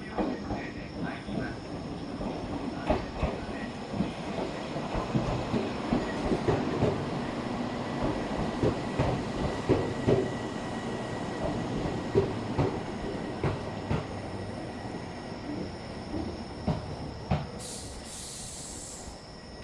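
Electric train running along the station platform, its wheels knocking irregularly over rail joints and points with a steady rumble and a faint whine. A short hiss comes near the end.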